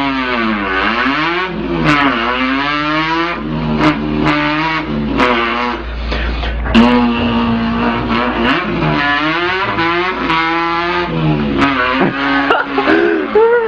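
A man imitating a car engine with his voice: revs that climb in pitch and drop back again and again, as if shifting through gears, with a few steady held notes in between.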